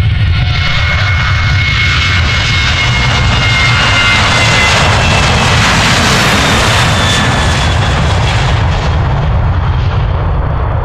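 Jet aircraft passing low overhead: loud engine noise with a thin high whine that swells to its loudest about halfway through, then eases off toward the end.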